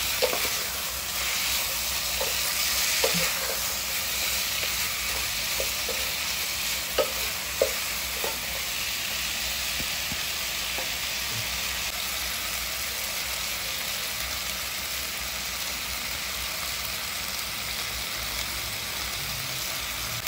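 Black chicken pieces sizzling steadily as they sauté in a pot. A wooden spatula stirs them, knocking against the pot a few times in the first eight seconds, with two louder knocks close together about seven seconds in.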